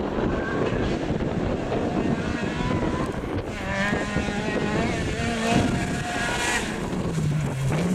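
Rally car engine on a gravel stage coming into hearing about halfway through, revving up and changing gear several times as it nears. Wind rumbles on the microphone throughout.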